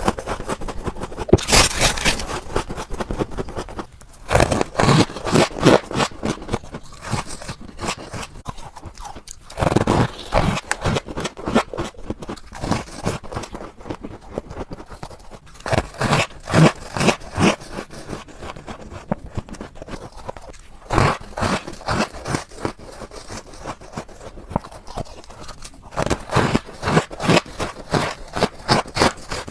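Freezer frost ice being bitten and chewed close to the microphone: clusters of rapid crisp crunches, separated by short pauses.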